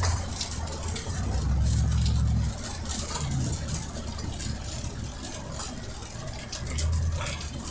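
Car engine and road noise heard from inside the cabin while driving, swelling louder twice, about a second and a half in and again near the end, with scattered light ticking over it.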